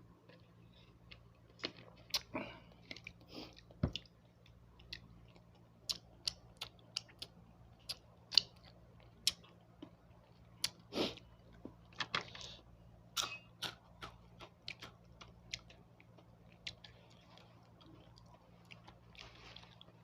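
A person chewing and eating: irregular wet mouth clicks, smacks and short crunches.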